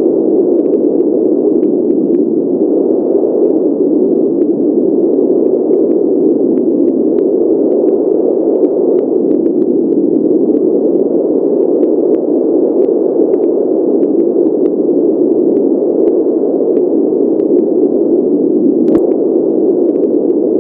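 Steady synthetic pink noise, an even, unchanging rush with most of its weight low in pitch. Faint scattered ticks sit over it, with one brief click near the end.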